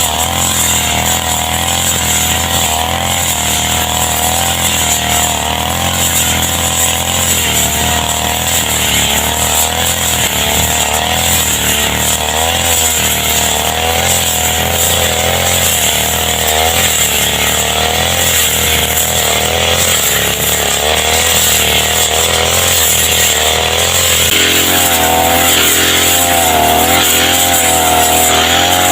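Brush cutter engine running continuously while cutting grass, its note wavering up and down with the load; about 24 s in the note shifts and grows stronger.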